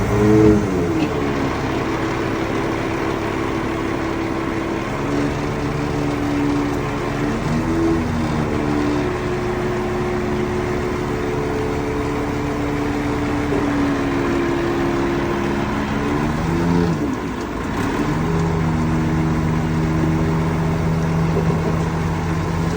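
Heavy diesel engine of earthmoving machinery running under load, its pitch dipping and rising again several times as the throttle and load change.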